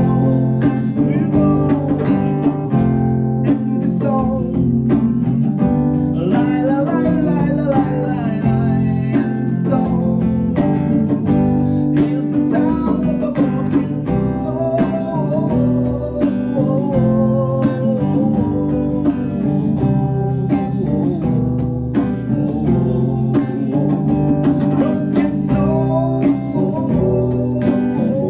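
Live band playing an original song: acoustic guitar with drums keeping a steady beat, and a melody line wavering over the top.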